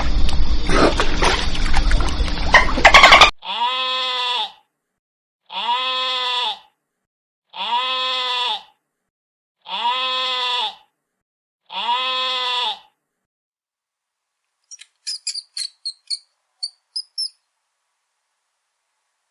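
A loud rushing noise that cuts off about three seconds in. It is followed by five goat bleats, each about a second long and evenly spaced about two seconds apart, all alike. Near the end come a quick run of short, high chirps.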